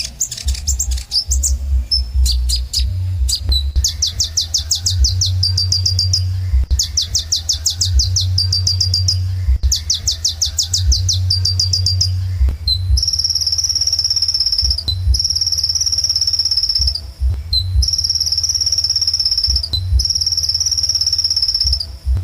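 Kolibri ninja sunbird singing: phrases of fast, high, repeated trilled notes about two seconds long, then about halfway through a run of four long, steady high whistles of about two seconds each. A low hum sits underneath.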